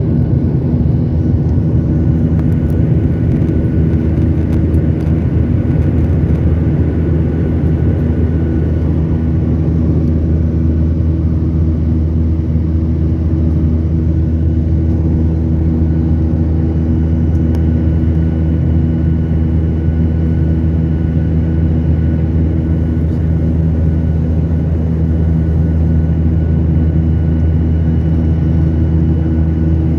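Airliner cabin noise in flight: a steady, unbroken engine drone with a deep rumble and a few constant tones above it.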